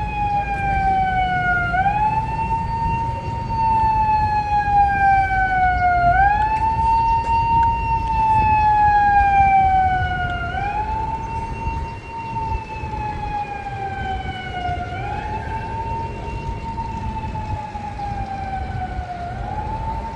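Electronic emergency siren wailing: one loud tone slowly falls in pitch, then sweeps quickly back up, over and over about every four and a half seconds. It is the alarm for an earthquake emergency drill.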